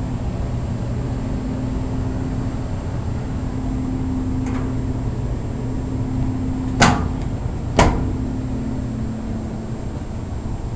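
Carrier upflow furnace's blower running for air-conditioning, a steady hum with a low drone. Two sharp clicks about seven and eight seconds in, with a fainter one a little before.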